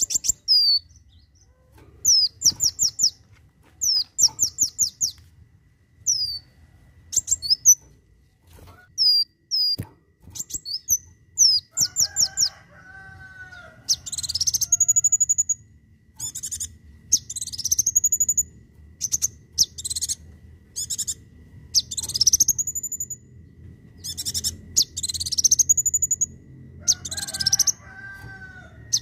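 Kolibri wulung (a sunbird) singing: very high, sharp chirps and quick rattled trills, then from about halfway a repeated high whistle that sweeps up steeply and curls over, about once a second. Lower warbling notes come in twice, over a faint low hum.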